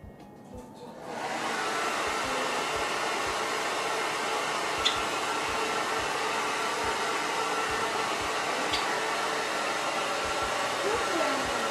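Hair dryer switched on about a second in, then blowing steadily. A couple of short, high chirps from a white Java sparrow sound over it.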